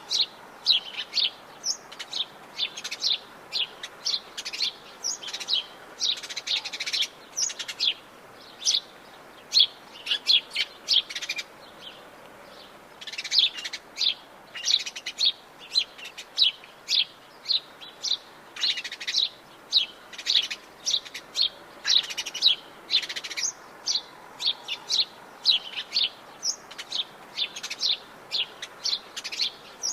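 Several small birds chirping and trilling in quick, overlapping bursts, a dense chorus of short high notes with a brief lull midway, over faint forest background.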